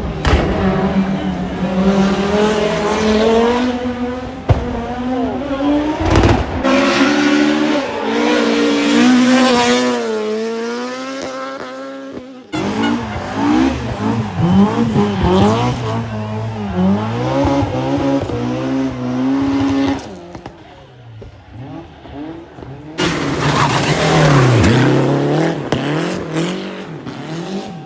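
Rally cars driven hard past the spectators, engines revving high and dropping through gear changes. The sound jumps abruptly several times as one pass gives way to the next.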